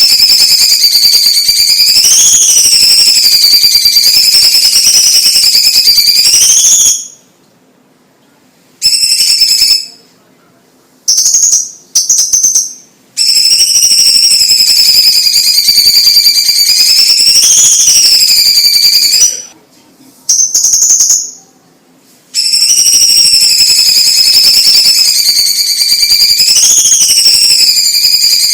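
Cucak cungkok (Chinese green leafbird) singing in long unbroken stretches of high, wavering whistled song lasting several seconds each. The stretches are broken by short gaps and a few brief bursts of song.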